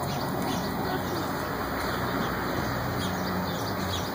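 Birds chirping faintly over a steady rushing background noise.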